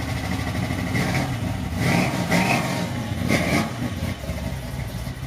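Chevrolet C10 truck engine running on its first start-up after being push-button started, with several brief revs of the throttle. The sound drops away near the end.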